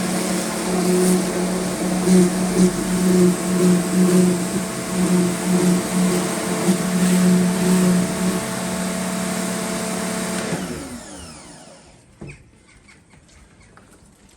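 Electric pressure washer running with a steady motor hum and the hiss of its water jet. The motor cuts off about ten and a half seconds in and winds down, followed by a single click.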